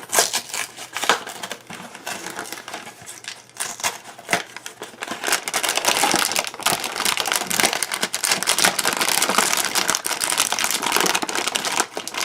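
Crinkly plastic muesli bag being pulled and twisted by hand while someone struggles to open it: a dense crackling rustle that gets louder about halfway through.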